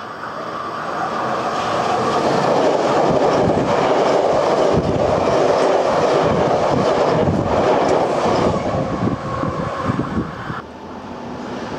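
Hankyu electric train passing at speed right beside the track: the wheels rumble along the rails with clacks at the rail joints. The sound builds over the first couple of seconds, is loudest through the middle, then fades and drops away abruptly near the end.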